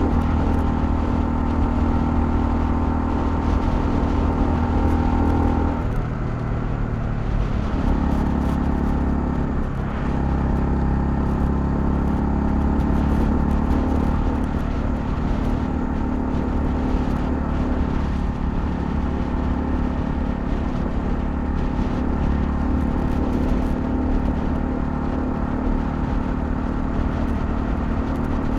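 Honda CL250 motorcycle engine running steadily under way. The engine note drops off about six seconds in and picks up again at a slightly different steady pitch about two seconds later.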